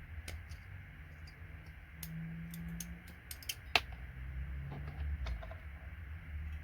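Scattered small plastic and metal clicks from a computer connector being worked apart and snapped off its board, with one sharp snap a little under four seconds in.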